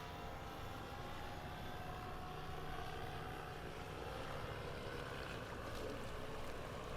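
Motorboat engines running at a distance, a steady drone with faint tones that slowly waver in pitch, over wind and water noise.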